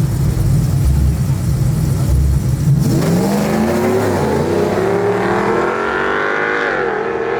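Truck engine rumbling low, then revving up about three seconds in and held at high revs, its pitch wavering, as in a burnout.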